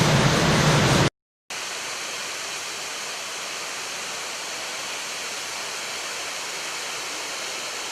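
Waterfall rushing, loud and full, cutting off abruptly about a second in. After a brief silence, a quieter, thinner, steady rush of falling water takes over.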